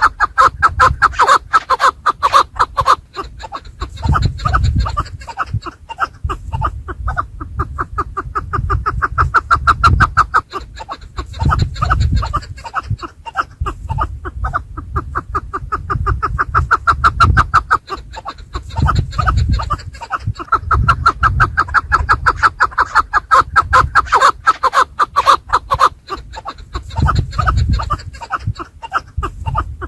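Chukar partridges calling: a fast, continuous run of repeated clucking notes over an uneven low rumble.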